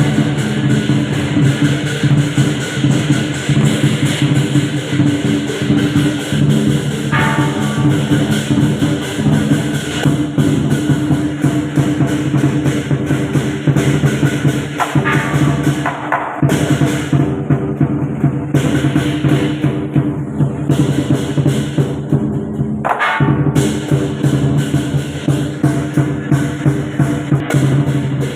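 Loud procession music with drums and percussion keeping a steady beat over sustained low tones, with a rising swoop that recurs about every eight seconds.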